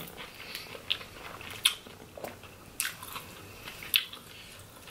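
Close-up chewing of buttery seafood, with wet mouth smacks and a few sharp clicks scattered through it.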